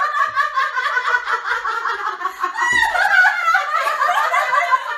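Women laughing hard and continuously in rapid pulses of laughter.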